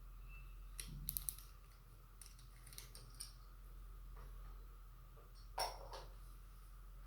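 Light clicks and taps of small hard parts being handled: a quick cluster of clicks about a second in, a few lighter ticks after, and one louder knock past the middle.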